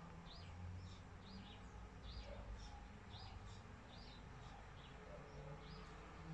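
Faint bird chirping: short high chirps repeating about twice a second, over a weak low hum.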